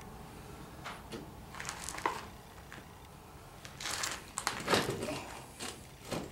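Scattered knocks and clinks of metal parts and tools being handled while fitting a mower gearbox, with a cluster of louder knocks about four to five seconds in.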